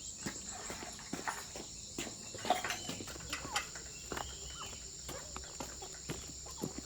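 Steady high-pitched insect chirring, with scattered short clicks and knocks.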